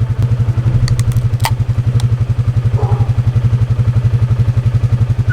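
A loud engine idling through its exhaust: a steady, rapid, even low pulsing. A few sharp clicks come between about one and two seconds in.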